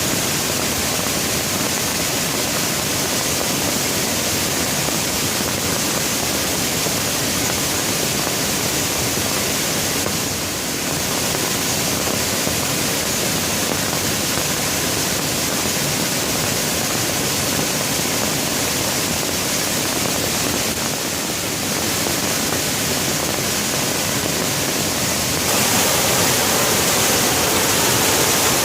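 Steady rain falling, an even hiss without separate drops or thunder, getting a little louder near the end.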